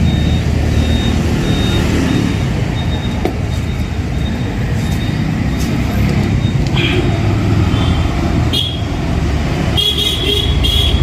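Steady road-traffic rumble with short vehicle horn toots, most clearly near the end.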